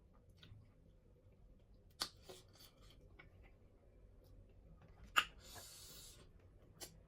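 Close-miked eating sounds: a few sharp crunches or clicks, the loudest about five seconds in, followed by a brief crinkly rustle.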